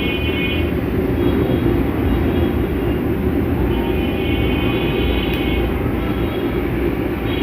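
Cooking stove burner running with a steady low roar under a pan of spice paste frying in oil. Faint high tones come and go over it.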